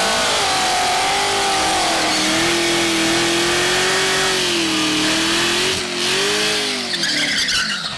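Race car engine running hard at high revs. Its pitch dips and climbs again a couple of times, and it falls away near the end.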